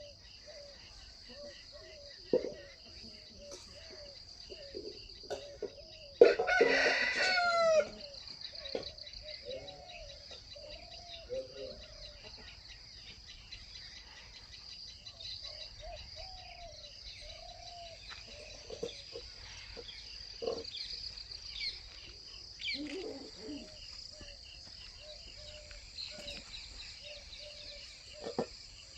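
Native country chickens clucking in short calls throughout, with a rooster crowing once loudly about six seconds in. A steady high thin whine runs underneath.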